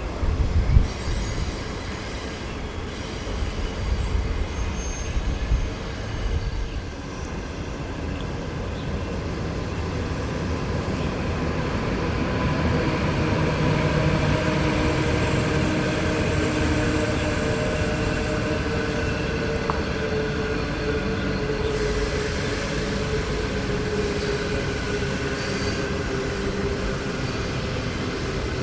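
A train running past on the line: a steady rumble of wheels on rail that swells over several seconds, with a few held tones over it. Uneven low thumps sound in the first few seconds.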